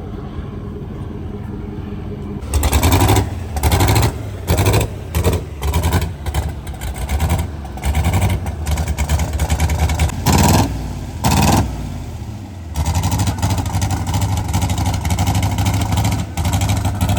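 Twin-turbo LS V8 engine in a limousine idling, then revved hard in a long series of short blips from about two and a half seconds in, and held at a steadier higher speed near the end.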